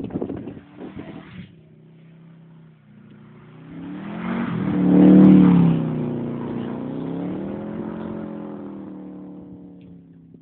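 Subaru Impreza GT's turbocharged flat-four engine revving hard as the car slides around, its pitch rising to a loud peak about five seconds in, then wavering at high revs and fading away near the end.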